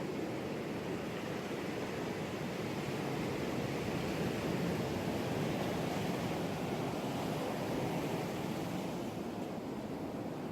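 Ocean surf washing onto a beach: a steady rush of waves that swells a little in the middle and eases off near the end.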